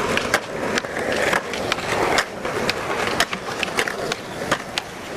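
Skateboard rolling on pavement: a steady wheel rumble broken by frequent sharp clicks.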